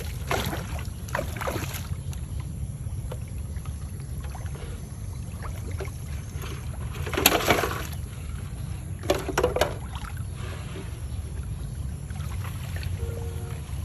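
Water splashing and sloshing in short bursts, loudest about seven and nine seconds in, over a steady low rumble.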